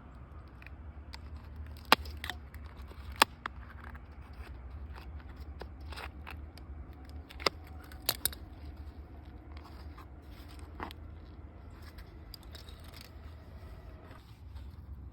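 Hands-on potting work with soil and manure: scraping and rustling with several sharp clicks, the loudest about two and three seconds in and a cluster around seven to eight seconds.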